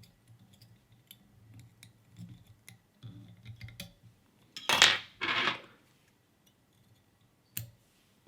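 Whip-finishing thread on a fly at the vise: faint scattered clicks and taps, then two short, louder rasping sounds about five seconds in.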